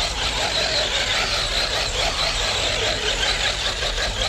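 FS Racing Tank 6S electric RC monster truck running, a steady rush of noise with a high whine held throughout.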